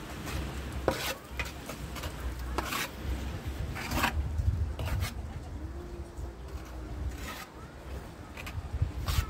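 A hand tool scraping in irregular strokes, about one a second, over a steady low rumble.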